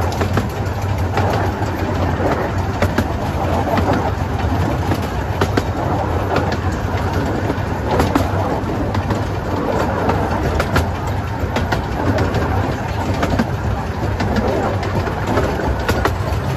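Miniature railway train running along the track, heard from an open carriage: a steady low rumble of the wheels with frequent clicks and knocks over the rail joints.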